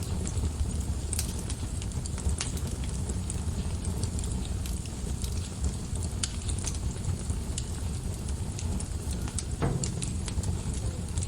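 Wood fire burning in a fireplace: a steady low rumble of flames with scattered small crackles and pops, and one louder pop near the end.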